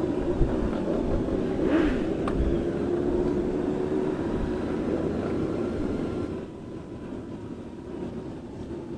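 Honda Gold Wing motorcycle running at riding speed: a steady engine drone mixed with wind and road noise. About six seconds in it drops noticeably quieter as the bike eases off.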